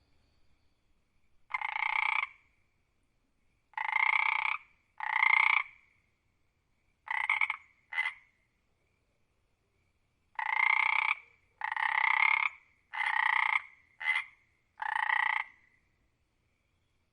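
A frog croaking: about ten short croaks, each under a second long, coming singly and in runs of two to four with silent gaps between.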